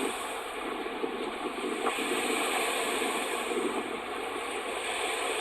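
Strong wind blowing steadily, a constant rushing noise.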